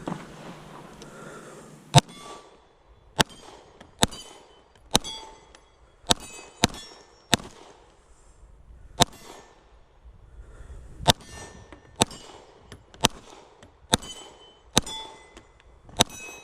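Steady string of about fourteen gunshots, roughly one a second and starting about two seconds in, each answered by the high ring of a steel target being hit.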